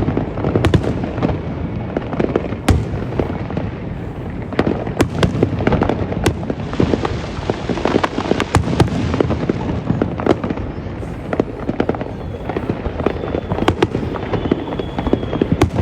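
Fireworks exploding in a dense barrage: many sharp bangs over a continuous rumble, with a stretch of thicker crackling in the middle.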